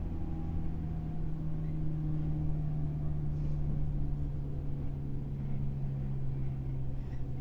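Running sound of a 103 series electric train heard inside motor car MoHa 103-385: the MT55 traction motors hum in one steady tone that slowly falls in pitch as the train slows, over a low rumble from the wheels on the track.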